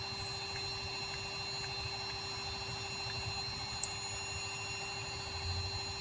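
Vehicle engine idling with a steady hum and a low rumble, and one short high tick about four seconds in.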